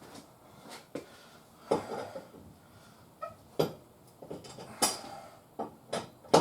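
Scattered metal clanks and knocks, about seven separate strikes, as tools and wheel hardware are handled during a wheel change.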